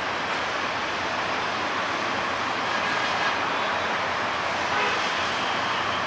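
Express train running along the track, a steady, even noise of wheels on rails with no horn.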